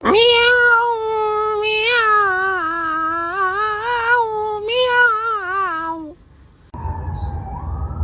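A cat's long, drawn-out yowling meow, held for about six seconds with its pitch wavering up and down, then breaking off.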